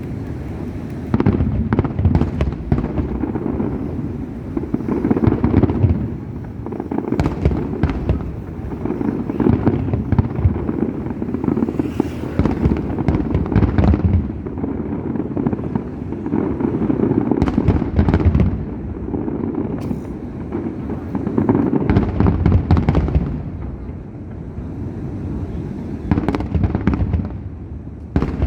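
Fireworks display: aerial shells bursting in rapid, overlapping bangs over a continuous low rumble, with louder clusters every few seconds.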